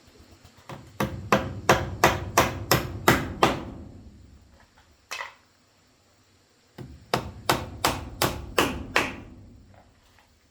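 Hammer blows in two quick runs, about three strikes a second, with a single blow between them.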